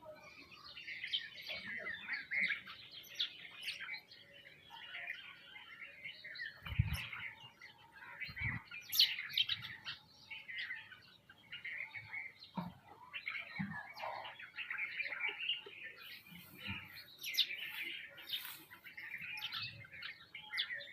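A flock of small birds, sparrows and mynas among them, chirping and calling continuously in a busy overlapping chatter. A few dull low bumps come in between, about a third of the way through and again near the middle.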